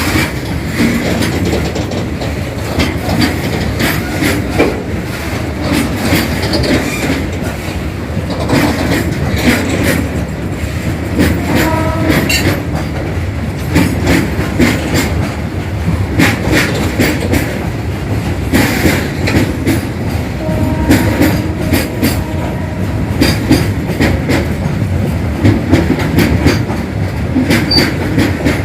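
Indian Railways freight train wagons rolling past, wheels clattering steadily over rail joints. Brief faint squeals of wheel on rail come about twelve and twenty-one seconds in.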